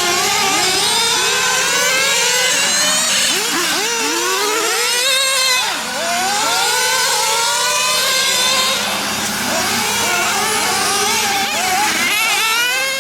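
Small nitro engines of radio-controlled GT cars running on a track, several at once, their high-pitched whine rising and falling over and over as they accelerate and lift off through the corners.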